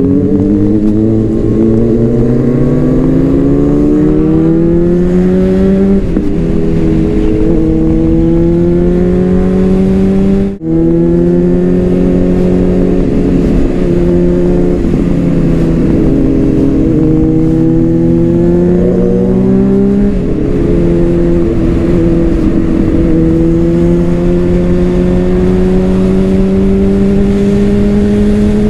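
Honda CBR600RR inline-four engine with a Leo Vince exhaust under way, its pitch climbing steadily in each gear and dropping at each upshift, with a brief break in the sound about ten seconds in.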